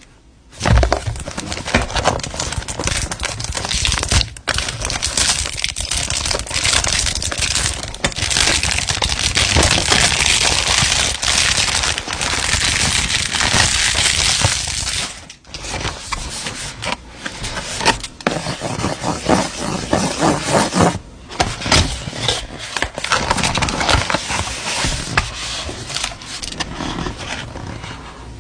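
Perfume box packaging being handled and opened: dense crackling and crinkling with scrapes and taps, nearly continuous, with a brief pause about halfway through.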